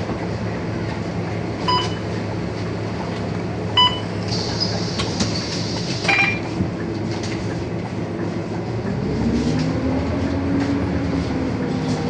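Scania K230UB bus's five-cylinder diesel engine running with a steady drone, its pitch climbing from about nine seconds in as the bus accelerates. Two short beeps come around two and four seconds in, and a burst of hiss follows just after the second.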